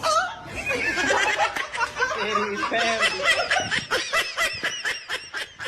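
People laughing, a quick unbroken run of high-pitched laughs.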